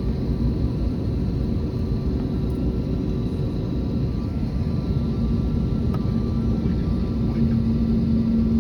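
Airbus A321neo jet engines running: a steady low rumble with several steady whining tones. A low hum grows stronger about halfway through.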